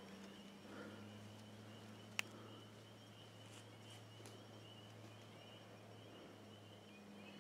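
Near silence: faint outdoor quiet with a steady low hum, broken by one sharp click about two seconds in.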